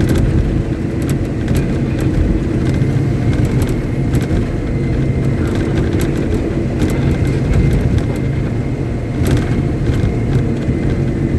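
Caterpillar 777D haul truck's large V8 diesel engine running at a steady speed, with scattered faint clicks over the drone.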